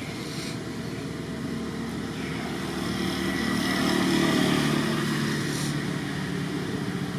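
An engine running steadily, swelling louder about four seconds in and then easing off.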